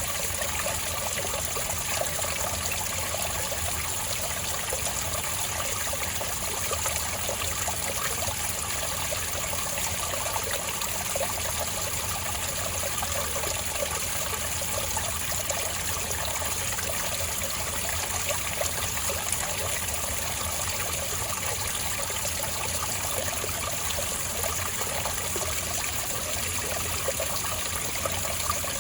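Spring water trickling and burbling steadily, a dense, even patter of small splashes.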